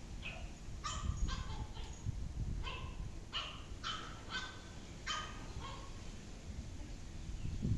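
Short, pitched animal calls, about nine of them in quick groups, that stop about six seconds in.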